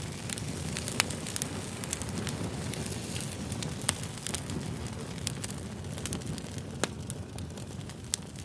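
Fire crackling: a steady low rustle with frequent sharp pops and snaps, a few of them louder.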